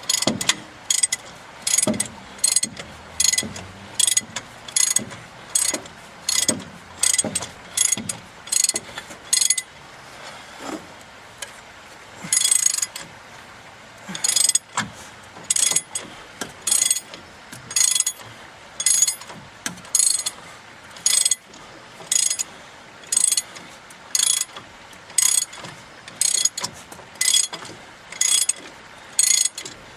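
Hand socket ratchet wrench clicking in short repeated strokes, about two a second, with a brief pause about a third of the way through.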